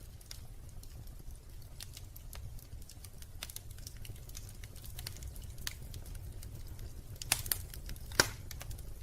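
Wood fire crackling in a fireplace: irregular small pops and snaps over a steady low rumble, with a few louder pops near the end.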